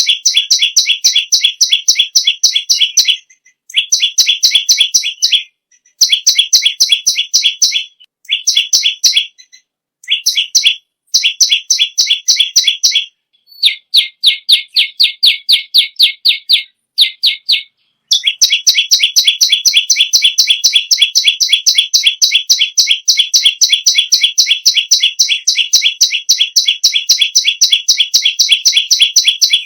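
Perenjak lumut songbird singing loudly in fast trills of rapid repeated high chirps, several seconds at a time with short breaks, then one long unbroken trill through the second half.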